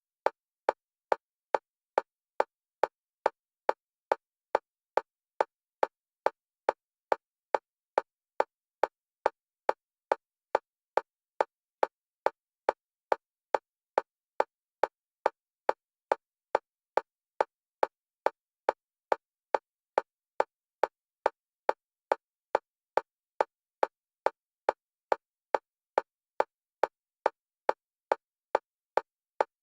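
Metronome-style clicks at an even, fast pace of about two a second, alternating between the left and right stereo channels: a bilateral stimulation track for EMDR.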